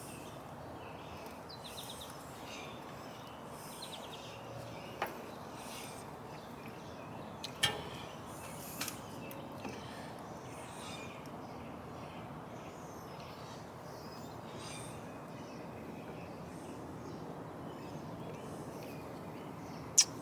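Quiet outdoor background hiss with faint bird chirps, broken by a few sharp metallic clicks and taps as carburetor parts are handled and fitted. The loudest click comes about halfway through the first half.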